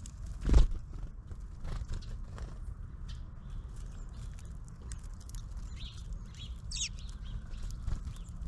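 Birds at a feeder: scattered sharp taps and knocks, with one louder knock about half a second in, and a few short high chirps around six to seven seconds in, over a steady low rumble.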